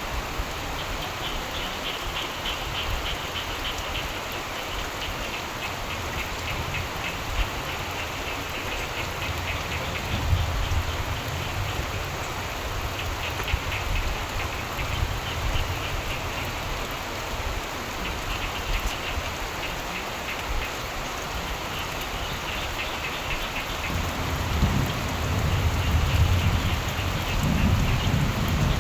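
Steady rain falling, with frogs calling in pulsed trills that come and go. A low rumble of distant thunder swells in the last few seconds.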